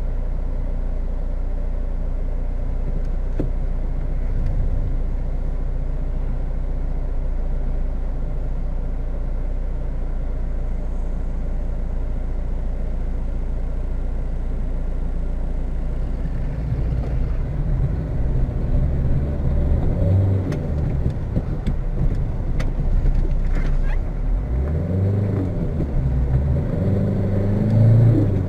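Fiat Tipo 1.9 turbo-diesel engine idling steadily, heard from inside the cabin. From about 16 seconds in the revs rise and fall as the car pulls away.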